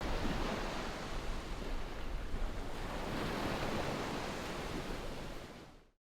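Steady outdoor rushing noise that fades out near the end.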